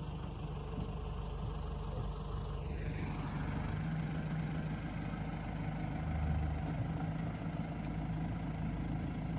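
Backhoe loader's diesel engine running steadily, with a tone sliding downward about three seconds in.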